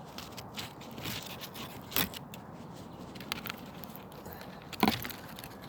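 Handling noise from a camera held up at arm's reach: scattered small clicks, rustles and scrapes, with a louder knock about two seconds in and another near the end.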